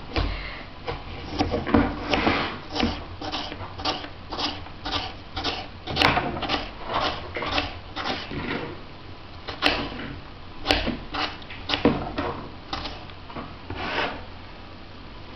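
Knife chopping apple pieces on a cutting board, in quick even strokes about three a second.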